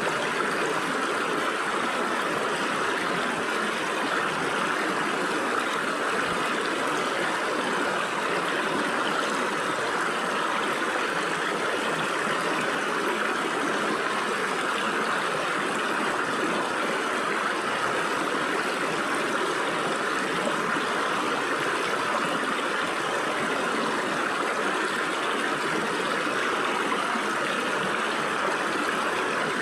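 Stream water running and splashing through gaps between rocks, a steady, even rushing with no breaks.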